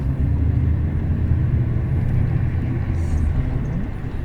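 Bus in motion heard from inside: a steady low engine rumble with road noise. The engine note rises briefly near the end.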